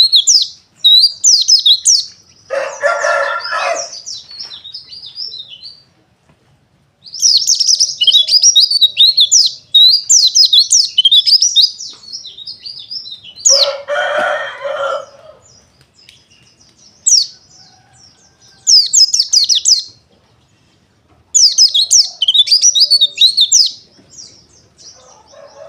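White-eyes (pleci, Zosterops) singing in rapid, high twittering phrases with short pauses between them. Twice, about 3 and 14 seconds in, a lower, rougher call lasting about a second and a half cuts in.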